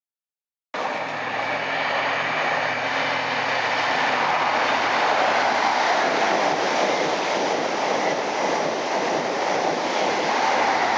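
InterCity 125 (HST) train passing at speed: a steady rush of wheel and air noise that cuts in abruptly just under a second in, with a low drone underneath that fades after a few seconds.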